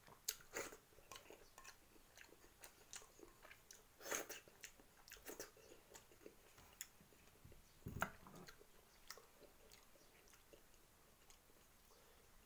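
Quiet close-up chewing of a mouthful of food, with scattered small mouth clicks. A single louder knock with a low thud comes about eight seconds in.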